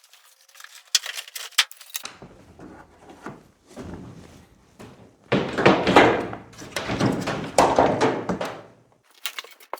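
Screws being worked out of a clothes dryer's sheet-metal casing: a quick run of small clicks, then scraping, knocks and a louder spell of rubbing and thunking as the metal panel and screws are handled.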